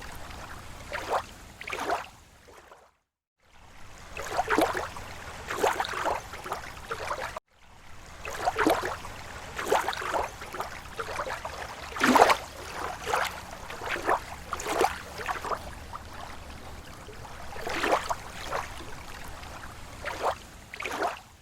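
Small waves lapping and splashing at a lake shore in irregular gurgling slaps, several a second, cutting out briefly about three seconds in and again about seven seconds in.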